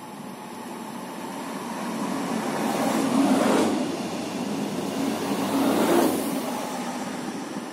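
Pesa 730ML diesel multiple unit passing directly beneath: engine and wheel noise builds up, peaks twice, about three and six seconds in, as its cars go by underneath, then fades away.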